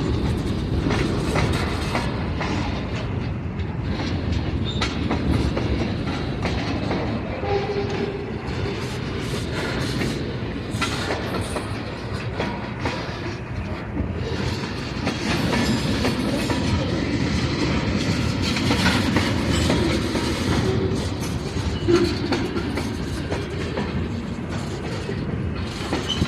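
Wisconsin Southern freight train's cars rolling past steadily, wheels clicking over the rail joints.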